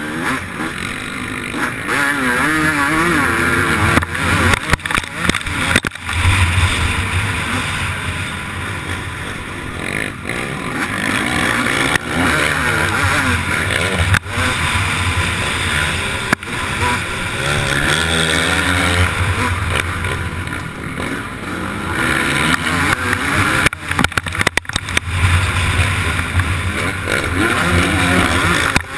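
Motocross bike engine racing, heard from a camera mounted on the bike or rider, the revs rising and falling over and over as the rider works the throttle through the track. Several brief, sudden drops in the sound break it up.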